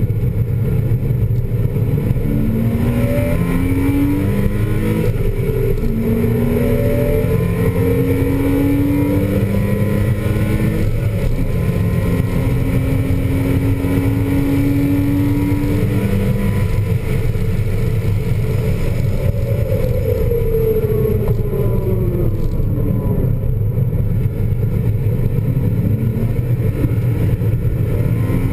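In-car sound of a 2000 Porsche Boxster S's 3.2-litre flat-six pulling hard on track. Its pitch climbs and drops back several times as it shifts up through the gears, then falls as the car slows for a corner, all over a steady rumble of wind and road noise.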